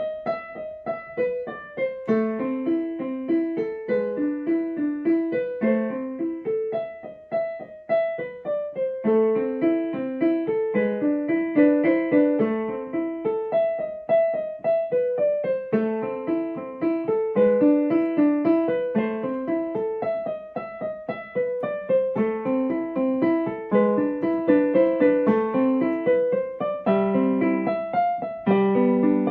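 Piano music: a flowing melody of single struck notes over a repeating broken-chord pattern.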